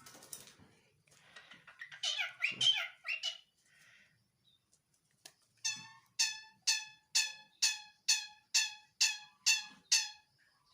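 A tame jalak (starling) calling: a short burst of chirpy, squeaky notes, then, from about halfway in, one sharp note repeated about ten times at roughly two a second.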